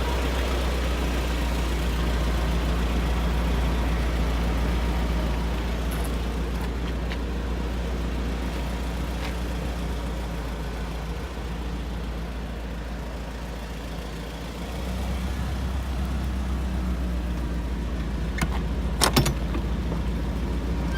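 Isuzu Elf truck's engine idling steadily, a low even drone, with a few sharp clicks near the end.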